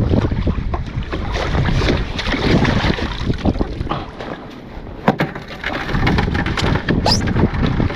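Wind buffeting the microphone over water sloshing and splashing against a kayak, with scattered small knocks and clicks and a short cluster of sharper knocks about five seconds in.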